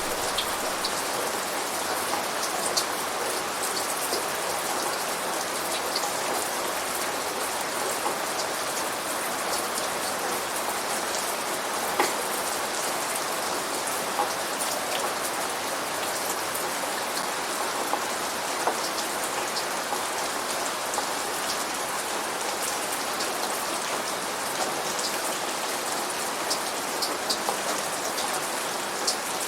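Steady rain falling, an even hiss with individual drops clicking sharply on a surface close by; one drop lands louder about twelve seconds in.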